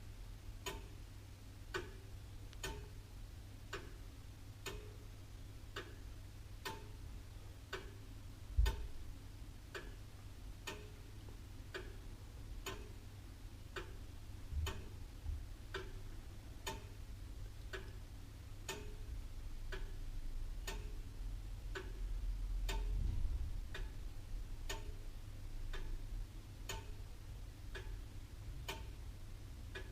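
Antique William Holliwell of Liverpool clock ticking steadily, an even tick-tock with alternate beats louder. A low thump about nine seconds in and a low rumble swelling past the twenty-second mark sit under the ticking.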